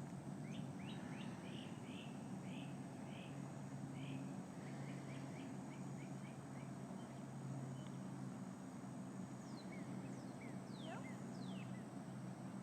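Small birds chirping: a quick run of short chirps, a few times a second, over the first half, then a few falling whistles near the end. A faint steady low hum runs beneath.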